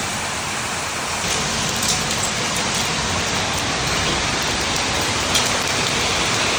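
Heavy wind-driven downpour: a steady, dense rush of rain pouring down and hitting surfaces, with a few faint drop ticks.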